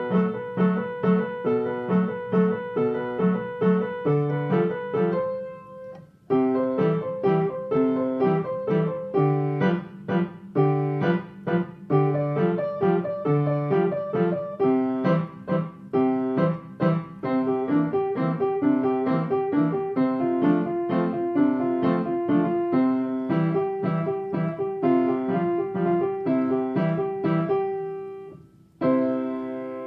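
A piano playing a waltz, with a repeating bass under the melody. The playing breaks off briefly about six seconds in and again near the end.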